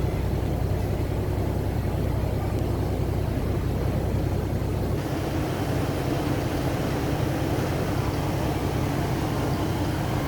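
Diesel train running steadily, a low engine hum with rattling over it. About five seconds in, the engine note changes: the deepest hum drops away and a broader rattle comes up.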